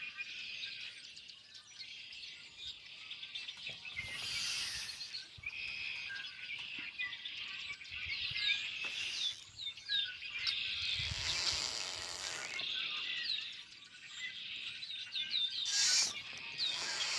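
Many backyard birds chirping and calling together, a dense run of short, quick chirps, with a few brief bursts of hiss.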